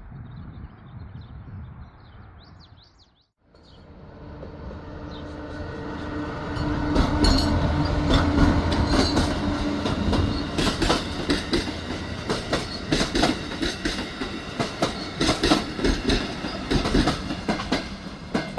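Amtrak Cascades passenger train approaching and passing, growing louder over a few seconds, with rapid wheel clicks over rail joints. Birds chirp before it, cut off by a brief dropout.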